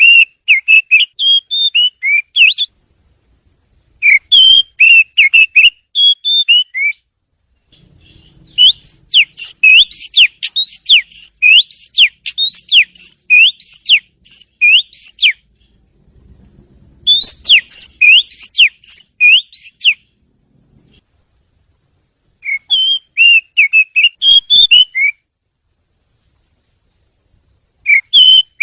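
Oriental magpie-robin (kacer) singing loud phrases of quick, high whistled notes, separated by pauses of one to three seconds. The middle phrase is a longer run of repeated rising notes lasting about six seconds.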